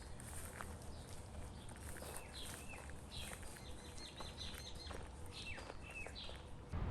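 Small birds chirping in woodland: a quick series of short, high, falling calls, thickest in the middle, over faint outdoor background noise.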